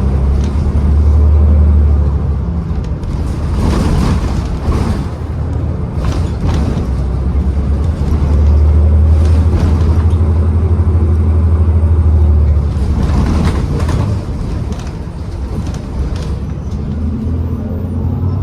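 Interior ride noise of a New Flyer XDE40 diesel-electric hybrid city bus under way: a heavy low drivetrain rumble that swells twice, with several sharp knocks and rattles from the body.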